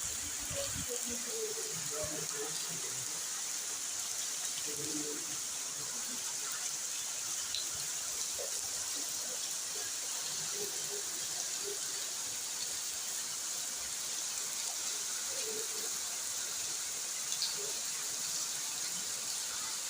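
Rain falling steadily, an even hiss with a few faint drips and clicks.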